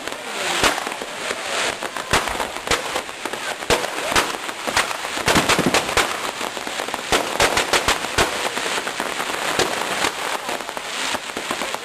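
Fireworks display: many bangs and crackling bursts in quick, irregular succession over a continuous crackle, densest around the middle.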